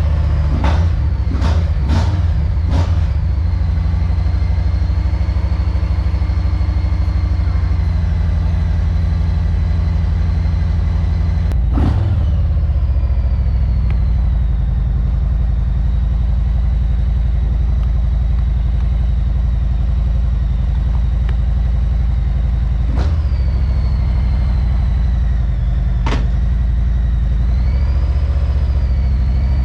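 Motorcycle engine running steadily at a low, even pitch, with a few sharp clicks in the first few seconds and single clicks now and then.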